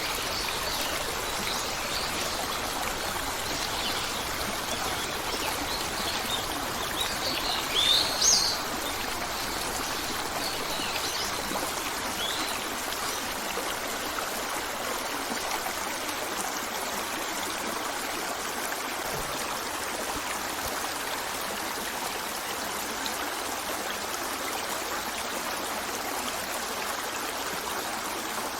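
A steady rush of flowing stream water, with bird calls over it in the first dozen seconds; the loudest is a short run of chirps about eight seconds in.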